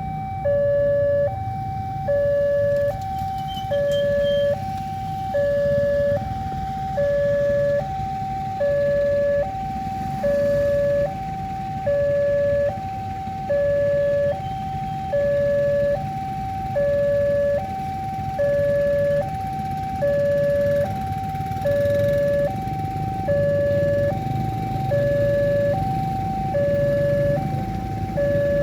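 Railway level-crossing warning alarm sounding: an electronic two-tone signal alternating evenly between a higher and a lower note, about one high-low cycle a second, over a low background rumble.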